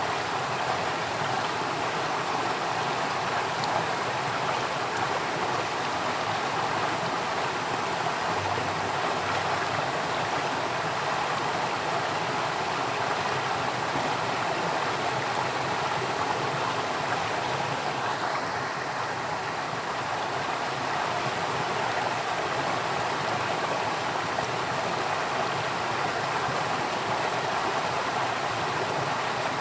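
Flowing water making a steady, even rush with no breaks.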